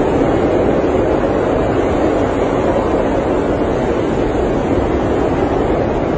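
Steady blizzard wind noise, an even, unbroken rush with no gusts, knocks or other events.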